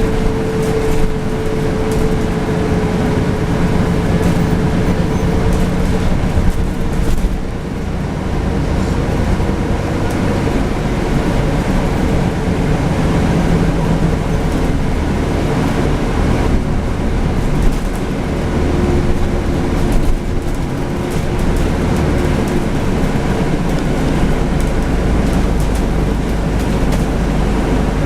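Scania N250UD double-decker bus with its 9-litre five-cylinder diesel running under way, a steady engine and driveline noise with a faint whine that falls slightly in the first few seconds and returns at a lower pitch about two-thirds of the way through.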